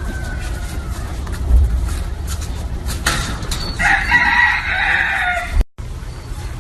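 A rooster crowing once, a call of about two and a half seconds that starts about halfway through and is cut off abruptly, over a steady low rumble.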